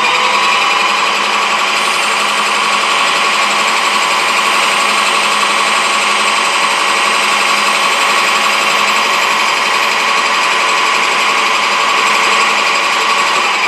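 Metal lathe running through a finishing turning pass of about 20 thousandths on a Delrin bushing. It is a steady, loud machine sound with several steady tones, easing off near the end.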